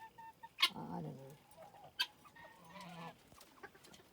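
Chickens clucking softly in an aviary, with a few short high peeps and a couple of sharp clicks.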